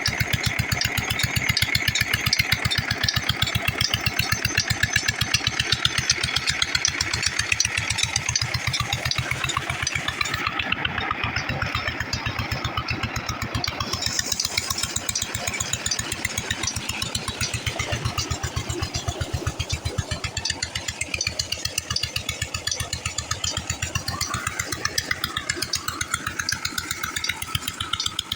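Vintage Petter diesel engine running steadily under load, driving a tubewell water pump, with a fast, even beat of firing strokes.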